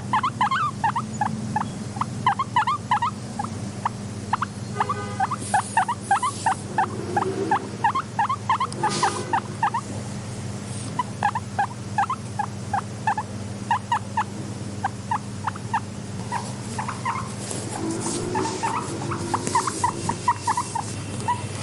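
Guinea pigs making rapid short squeaks, several a second, with a couple of longer, louder squeals about five and nine seconds in, over a steady low hum.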